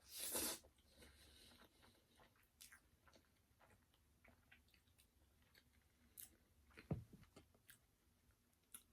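Close-miked eating of fried chicken: a crunchy bite in the first half-second, then quiet chewing with scattered small mouth clicks and a sharper crunch about seven seconds in.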